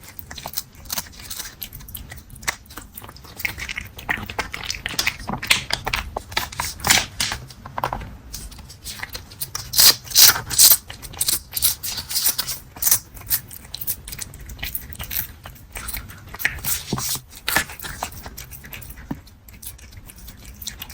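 Close-miked cat mouth sounds: a fast, irregular run of small clicks and crunches from the cat's mouth, loudest about ten seconds in.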